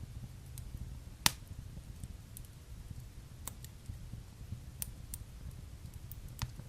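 Wood fire in a fireplace crackling: scattered sharp pops and snaps over a low, steady rumble, the loudest pop about a second in.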